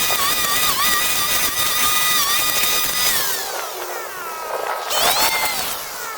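A power tool's motor running at a high, steady whine. About three seconds in it is let off and the pitch falls away, then it is throttled back up to full speed near the end.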